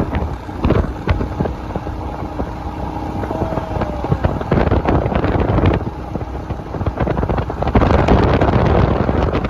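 Wind buffeting the microphone on a moving motorcycle, gusting unevenly over the low rumble of the running engine.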